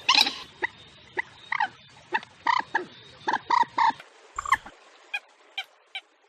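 Recorded waterbird calls: short, harsh pitched notes repeated about once or twice a second, growing fainter and sparser near the end.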